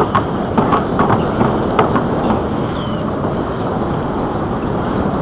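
Steady rush of wind and rolling noise from a bicycle moving along a paved trail, with a few light clicks or rattles in the first couple of seconds.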